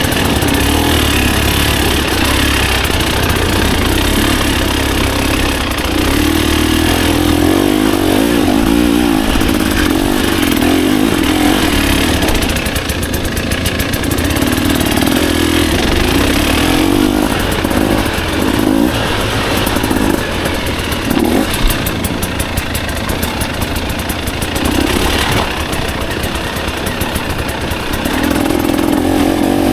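Dirt bike engine running under changing throttle. It holds long pulls early on, then gives a series of short throttle blips, and pulls steadily again near the end.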